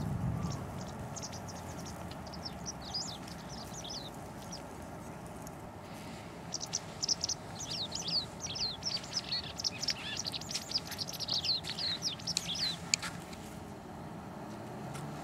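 A small songbird singing quick, twittering runs of chirps: a short phrase early on and a longer, busier one from about six to thirteen seconds in, over a faint steady hiss of open air, with a couple of sharp clicks near the end.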